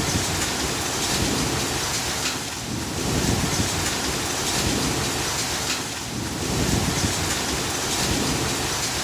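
Storm: a steady heavy downpour of rain with a continuous low rumble beneath it, easing slightly and swelling again about every three and a half seconds.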